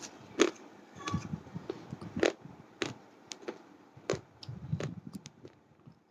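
Hard slate pencils being bitten and chewed close to the microphone: sharp, irregular crunching cracks, the loudest about half a second, two and a quarter and four seconds in, between softer gritty chewing.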